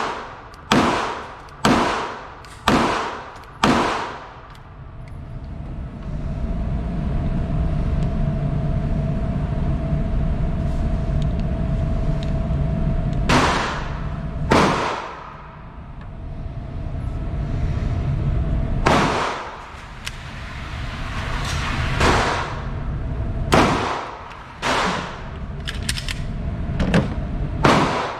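Handgun shots at a range: a string of five about a second apart at the start, then single shots and quick pairs spread through the rest, each with a short echo. A low steady rumble fills the gaps between the shots.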